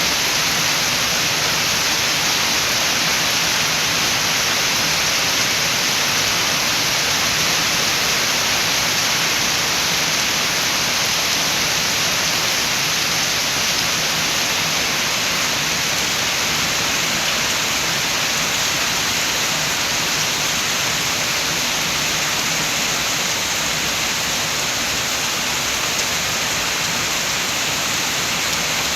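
Steady, even rain, a dense continuous hiss with no separate drops or gusts standing out.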